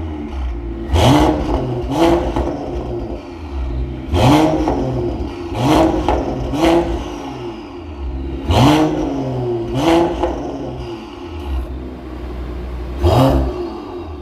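Mercedes-AMG GT43 exhaust, fitted with a Brillante muffler and downpipe on its variable exhaust, idling and revved in about eight short blips. Each blip rises quickly in pitch and falls back to idle.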